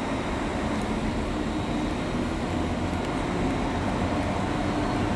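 A train running steadily: a low, even drone with a few steady hum tones, and no sudden sounds.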